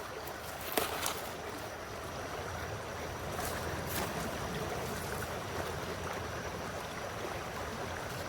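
Shallow river flowing steadily over stones, under a low rumble, with a couple of faint clicks.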